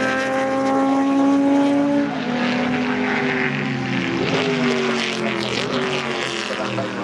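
Historic sports-racing car engines at high revs, their pitch climbing steadily, dropping at a gear change about two seconds in, then several engines overlapping as more cars go by.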